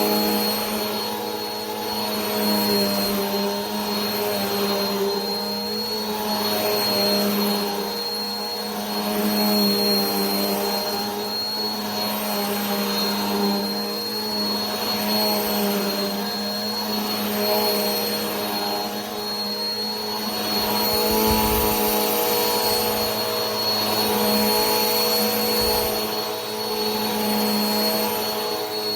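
Vacuum cleaner running steadily, a motor hum with a thin high whine over a rush of air. The air noise swells and fades about every two seconds.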